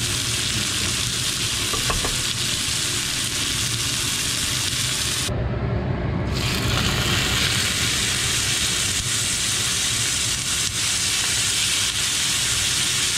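Sesame-crusted yellowfin tuna loins sizzling steadily as they sear in hot oil in a frying pan. The high hiss of the sizzle drops away for about a second halfway through.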